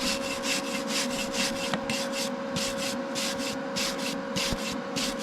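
Wire brush scrubbed back and forth over a fresh flux-core weld to knock off the slag, in quick rasping strokes about three a second, over a steady hum.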